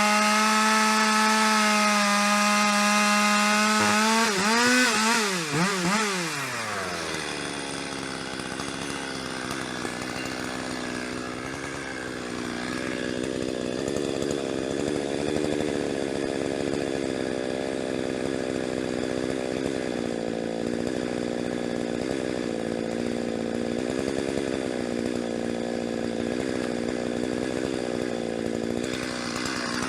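Chainsaw running at high revs, then its pitch wavers and falls away between about four and seven seconds in. After that a lower, steady engine note continues under a rough hiss.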